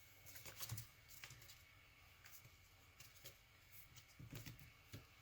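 Faint rustling and crinkling of a sheet of origami paper being folded and creased by hand, in a few short, soft bursts.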